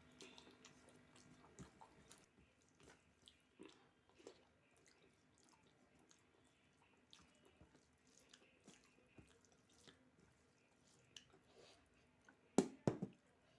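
Faint close-up chewing and wet mouth sounds of someone eating a meal of rice and dal, with many small scattered clicks. Two louder sharp knocks come near the end.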